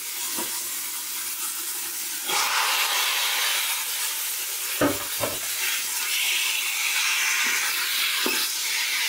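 Chopped onion sizzling in hot oil in an Instant Pot's stainless steel inner pot on sauté; a little over two seconds in, raw chicken pieces go in and the sizzle gets louder. A few knocks of a wooden spoon on the pot as the chicken is stirred.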